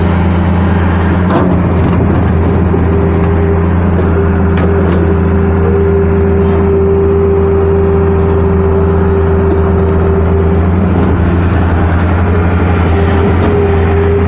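Loud diesel engine of a KATO HD-650 excavator running steadily, with a steady whine that holds for several seconds in the middle.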